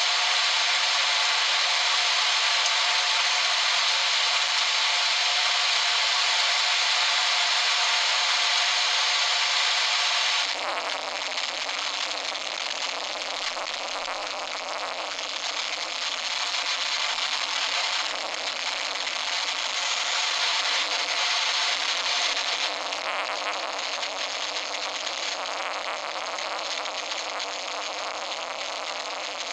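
Heavy rain pouring down in a violent thunderstorm, a dense steady hiss that drops suddenly about ten seconds in to a somewhat lighter, surging downpour.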